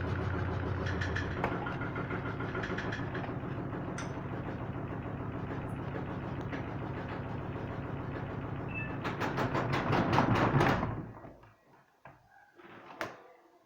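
Washing machine spinning an unbalanced load, its motor and drum humming steadily. About nine seconds in it gets louder with a fast run of knocking as the off-balance drum bangs around. The spin then stops abruptly, leaving a couple of faint clicks.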